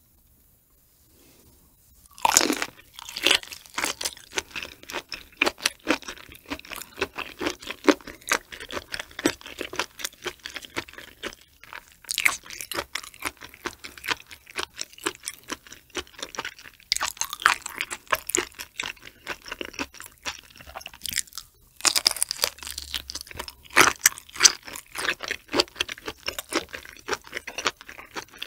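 Close-miked chewing of raw shrimp topped with flying fish roe: dense, wet crackling and popping as the roe bursts. It starts about two seconds in and breaks off briefly about three-quarters of the way through.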